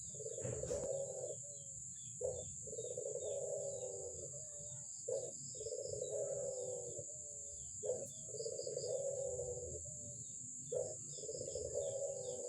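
Albino puter dove (domestic collared dove) cooing steadily, a short note followed by a long rolling coo, repeated about every three seconds, five times. Faint chirps from small birds and a steady high hiss run underneath.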